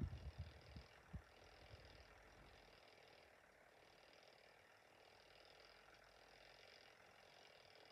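Near silence: faint room hiss, with a few faint low thumps in the first two seconds.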